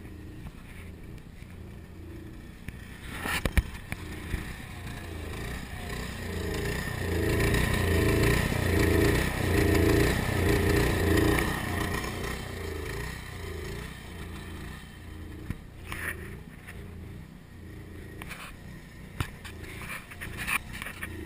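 RV's factory-option propane generator running under load with an uneven, pulsing beat about twice a second, growing louder through the middle and easing off again. It runs rough, which the owner takes as a sign that it needs a tune-up. A sharp click comes about three and a half seconds in.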